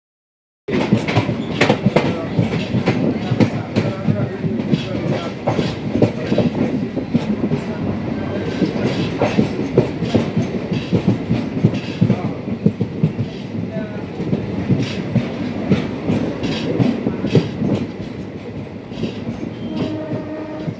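A train running past close by, its wheels clattering over the rail joints with many sharp clicks. The clatter eases a little near the end.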